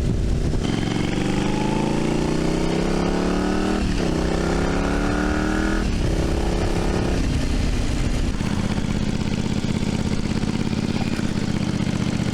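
1982 Yamaha Virago XV750's air-cooled V-twin being ridden and pulling up through the gears. Its pitch rises in each gear and drops at shifts about four, six and seven seconds in. From about eight and a half seconds it settles to a steady, lower idle.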